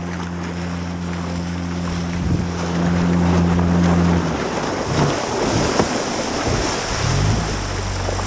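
Small speedboat's motor running close by over wind and water noise, the engine dropping away about four seconds in and then revving back up near the end.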